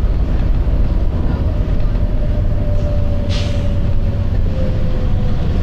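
Volvo B9TL double-decker bus's nine-litre diesel engine running with a steady low rumble and a faint whine that drifts slightly lower, and one short hiss of air from the bus's air system about three seconds in.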